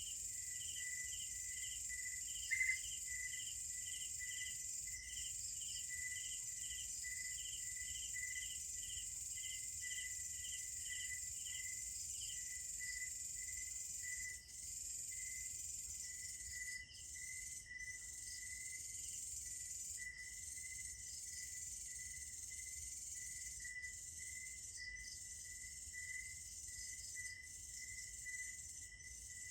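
Night chorus of crickets and other insects: a steady high trill, with crickets chirping in regular pulses two or three times a second, one of them falling silent about twelve seconds in. A single sharp click comes a few seconds in.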